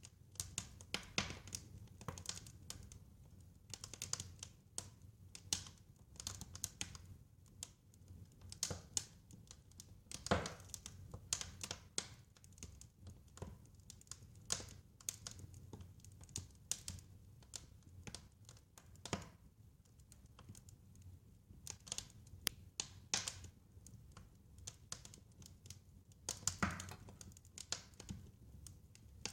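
Wood fire crackling: irregular snaps and pops, some in quick clusters, over a low steady rumble.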